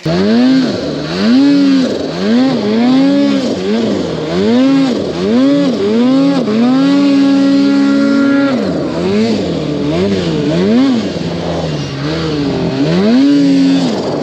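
Snowmobile engine revving up and down over and over, about once a second, then held at high revs for about two seconds midway before the rocking revs resume.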